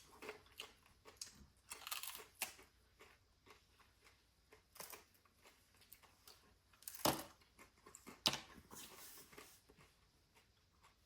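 Faint handling of a bag of crisp, thin dried beef (carne seca): scattered light crinkles and small snaps, with one sharper click about seven seconds in.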